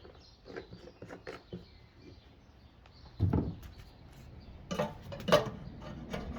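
Scattered clinks and knocks of metal parts being handled, with a dull thump about three seconds in and a few sharper clanks around five seconds in.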